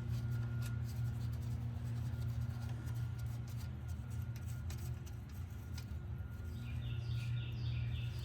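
A steady low hum with faint, scattered sharp clicks. Near the end a bird chirps in a quick run of short, repeated notes.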